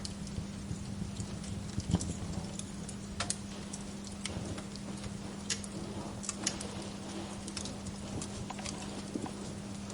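Wood fire in a fireplace crackling, with irregular sharp pops and snaps over a low steady hiss of burning.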